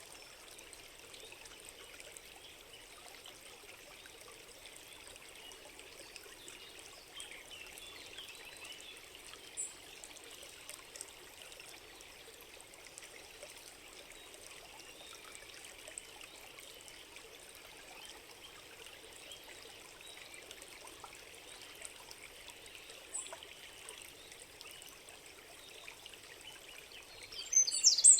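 A small stream trickling and running steadily, with a couple of faint high chirps. Near the end, birds suddenly start singing loudly.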